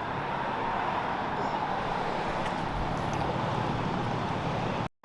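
Steady running noise of a car engine and exhaust, with a low rumble underneath. It cuts out abruptly for an instant near the end.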